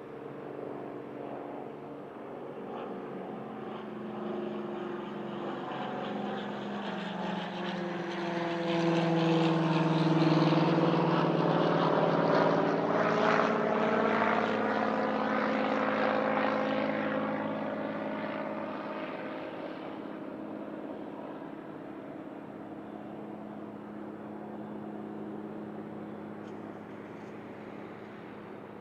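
Boeing 777-9's twin GE9X turbofans at takeoff power, passing by: the sound builds, is loudest from about ten to sixteen seconds in with its engine tones falling in pitch as the jet goes past, then fades away.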